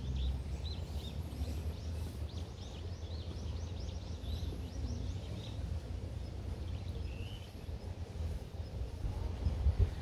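Small birds chirping in quick runs of short, high calls, thickest through the first half and then only a few, over a steady low rumble.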